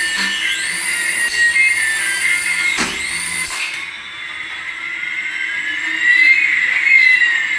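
Electronic sound effects from a battery-powered light-up toy: a repeating warbling tone pattern, then slow rising and falling whines that cross each other.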